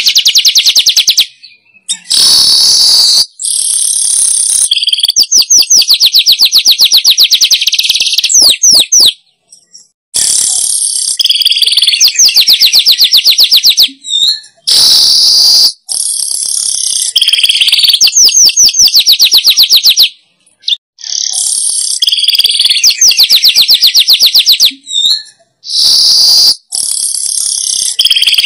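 Manyar weaver song played as a bird lure: loud, repeated phrases of a few seconds each, made of buzzy wheezes and fast rattling chatter with a few short whistled glides, separated by brief pauses.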